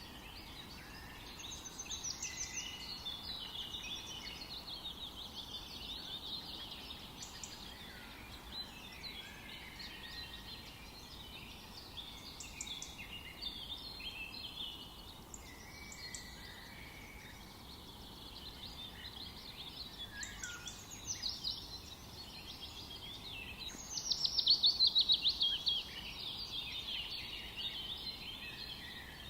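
Several songbirds singing over a faint steady hiss: a busy mix of short chirps, warbles and trills. A fast trill near the end is the loudest.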